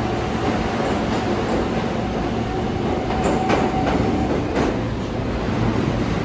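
New York City subway train running through the station with a steady rumble, a thin steady tone that stops a little after four seconds in, and a few sharp clicks of wheels over rail joints.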